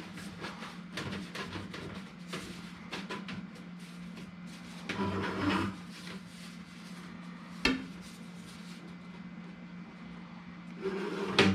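Light handling noises: rustling and small taps from flexible duct and its wire being worked by hand, with one sharp click a little past the middle and a short scrape near the end, over a steady low hum.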